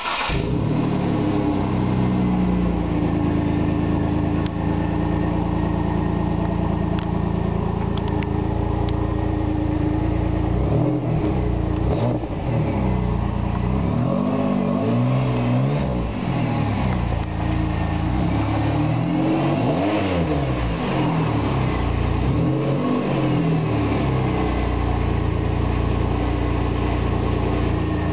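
1998 Pontiac Firebird's 3800 V6 heard through a Dynomax crossflow muffler, starting up suddenly and settling into a steady idle. From about ten seconds in it is revved several times, each rev rising and falling in pitch, before returning to idle near the end.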